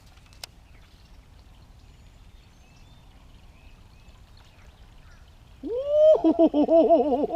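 Faint steady background with a few soft bird chirps, then about five and a half seconds in a loud, wavering goose-like honking call breaks in and carries on to the end.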